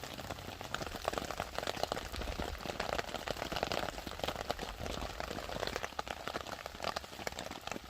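A burger sizzling and spitting in a small frying pan over a wood-burning camp stove: a steady, dense crackle of fat.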